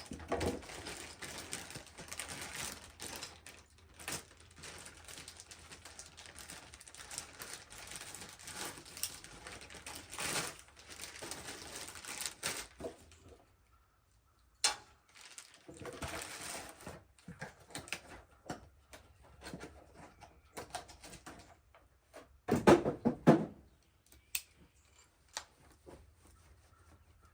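Hand tools and steel steering-linkage parts clicking and clattering as the new linkage's nuts are started by hand. There is a near-continuous run of clicking for about the first half, then a pause and scattered clicks, and a louder clatter about four seconds before the end.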